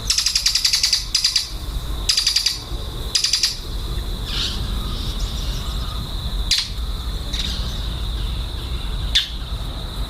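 Lovebirds chattering: three quick rattling trills in the first few seconds, then several short, sharp chirps spaced a second or two apart. A steady, thin high-pitched whine runs underneath.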